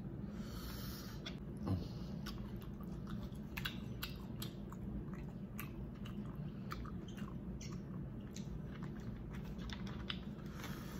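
Close-up chewing of a boiled seafood meal, with scattered wet mouth clicks and small crunches, and one louder thump nearly two seconds in, over a steady low hum.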